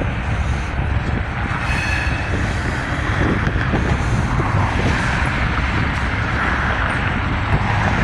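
Train rolling past: a steady rumble of wheels on rail, with faint high squeals from the wheels now and then.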